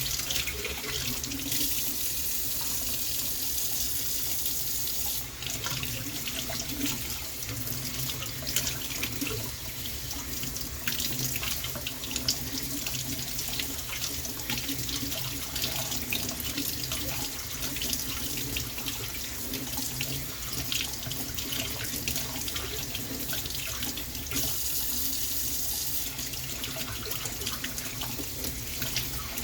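Water running steadily from a tap into a sink, with a brighter, harder flow for a few seconds near the start and again near the end.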